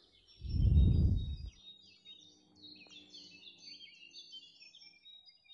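Birds chirping and twittering faintly throughout. About half a second in comes a loud, low, muffled rumble that lasts about a second.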